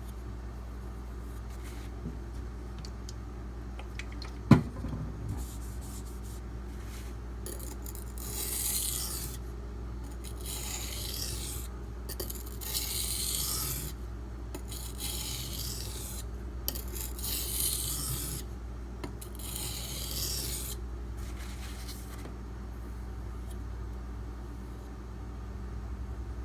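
A D2 steel knife blade scraping back and forth across a sharpening stone, in a run of several separate strokes each lasting about a second. A single sharp knock comes about four and a half seconds in.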